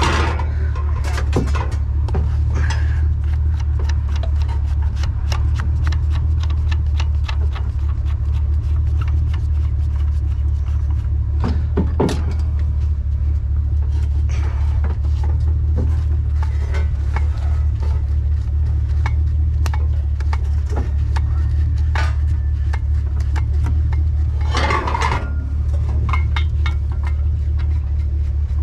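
Vehicle engine running steadily with a constant low rumble, while scattered clicks and light metal taps come from small scrap parts being handled and worked on, with a louder knock about twelve seconds in and a short clatter near twenty-five seconds.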